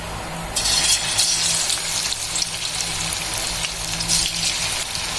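Marinated, cornflour-coated chicken tikka pieces sizzling as they go into hot oil for deep-frying; the sizzle starts suddenly about half a second in and then goes on steadily.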